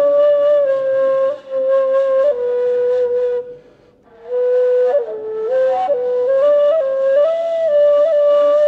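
Ney, the Turkish end-blown reed flute, playing a slow solo melody of long held notes that step and slide between pitches, with a breathy tone. The line breaks off for about a second about three and a half seconds in, then resumes with a dip and rise in pitch.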